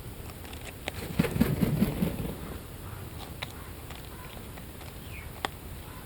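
Birds pecking at biscuits: a quick run of sharp taps and crunches between about one and two seconds in, then scattered single pecks over a steady hiss.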